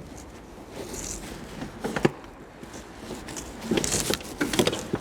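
Scattered clicks, knocks and rustles of hands working on the car, with a single knock about two seconds in and a denser cluster of them near the end.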